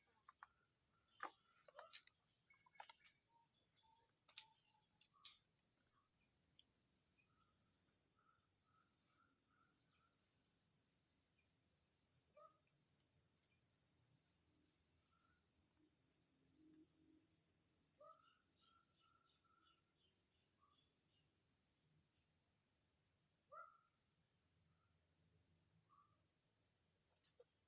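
A steady, high-pitched insect chorus that swells louder three times for about two seconds each, with a thinner steady whine underneath. Scattered short bird chirps sound over it.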